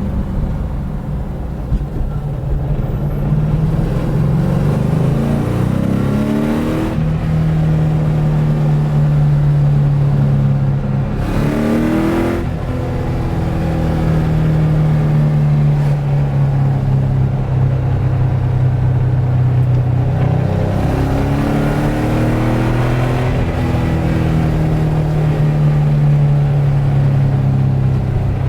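Car engine pulling through the gears: its pitch rises under acceleration, drops at each shift and then runs steadily. This happens about three times.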